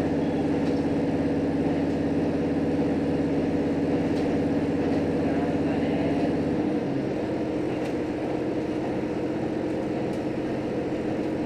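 JR Hokkaido H100 diesel-electric railcar heard from inside the cabin while running: a steady engine drone with several held tones. About seven seconds in, the engine note steps down to a lower, slightly quieter hum.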